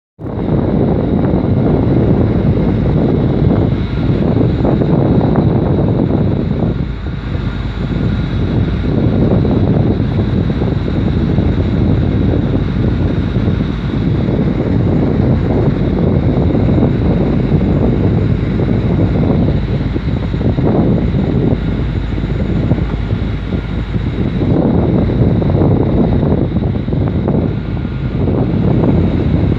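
Strong wind buffeting the microphone over the steady rush of a boat under way at sea, with a faint, steady high whine running underneath.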